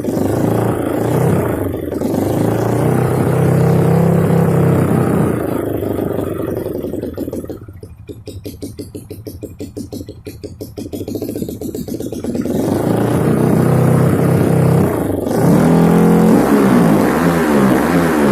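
Single-cylinder four-stroke Kawasaki KLX trail bike engine breathing through an Over Racing aftermarket exhaust. It is held at revs, drops to a pulsing idle about eight seconds in, is revved up again, and ends in a run of quick throttle blips.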